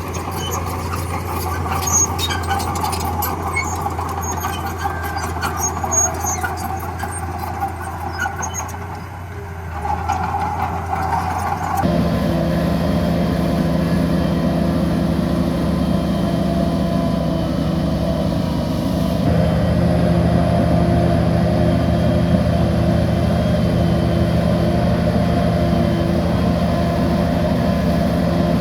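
Heavy diesel engines of earthmoving machinery running steadily, with scattered clicks and rattles in the first part. About 12 s in the sound cuts abruptly to a closer, steadier engine drone.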